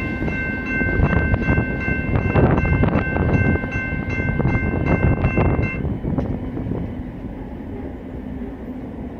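Fast freight train's cars rolling past with rapid wheel clicks over the rails and a steady high ringing tone. About six seconds in the ringing stops and the rumble fades as the end of the train moves off.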